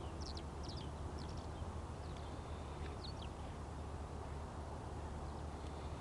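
Small birds chirping in short, high calls, mostly in the first half, over a steady low rumble, with no sudden events.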